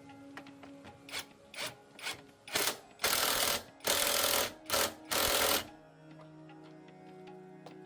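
Background music, with a workshop tool or mechanism sounding in a series of short bursts of about half a second each. They start small about a second in, grow loudest and longest in the middle, and stop about two seconds before the end.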